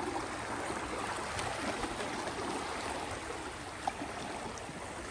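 Steady rush of flowing river water, with a single short click nearly four seconds in.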